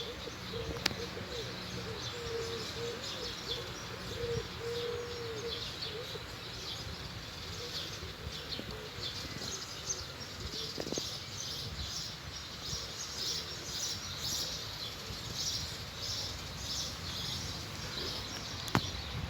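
Small birds chirping continuously. A dove coos repeatedly over the first several seconds.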